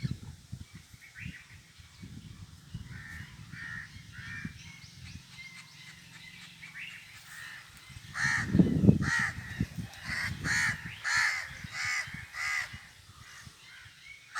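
Crows cawing repeatedly: a string of softer calls in the first few seconds, then louder caws in quick succession from about eight seconds in.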